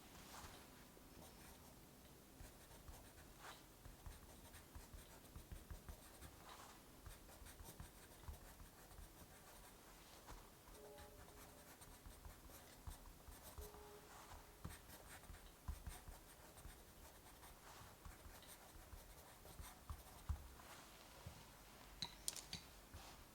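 Faint pen-on-paper writing: soft scratching strokes with small irregular ticks and taps.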